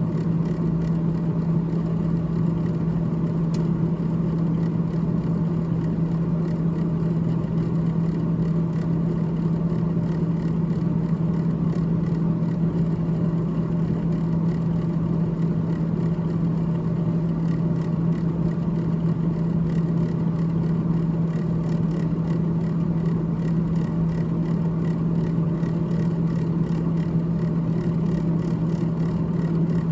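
Freezer fan of a GE GTH18XCTZRBB refrigerator running, a steady low hum with a constant whirring noise over it.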